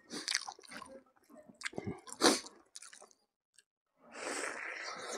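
Close-miked wet chewing of buffalo meat and rice eaten by hand: separate sharp wet smacks, the loudest about two seconds in, then a longer stretch of squelching about four seconds in as a handful goes into the mouth.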